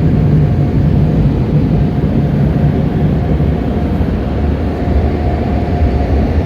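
Automatic car wash equipment running with a loud, steady rushing noise over a low hum.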